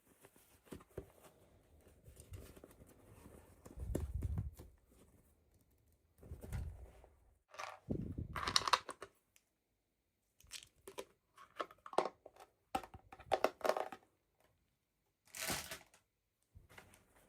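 Toy packaging being opened by hand: irregular bursts of rustling, crinkling and tearing, with clusters of small clicks and taps, separated by short pauses.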